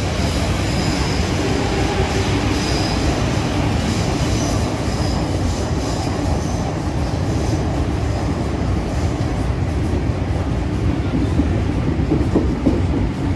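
A train running on the rails: a steady, loud rumble of wheels on track, with a faint high wheel squeal in the first half.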